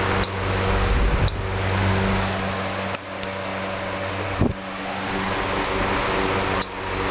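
1949 Emerson Electric 77646-AV table fan's permanent split capacitor motor running on high with the oscillator just switched on: a steady motor hum under the rush of air from the blades, with a few brief clicks.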